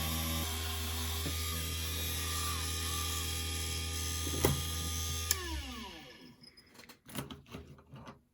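Small hobby lathe running steadily, spinning a model locomotive motor's armature while its commutator is buffed. About five seconds in it clicks off and winds down with a falling pitch, followed by a few light clicks of handling.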